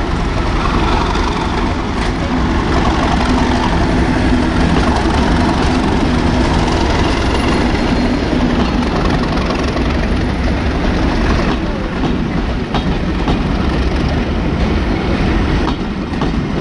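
A diesel locomotive's engine running as it draws a train of coaches past. The coaches then roll by, their wheels clicking over the rail joints in the second half.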